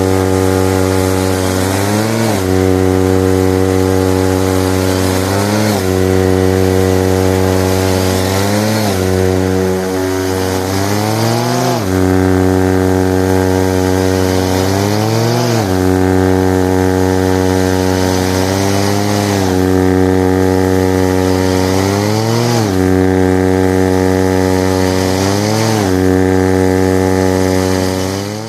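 Small 43cc Chinese two-stroke engine, fitted in place of the original on an Oshima Noki SP350 walk-behind snowblower, running hard while throwing packed snow. Its speed sags and picks back up about every three to four seconds.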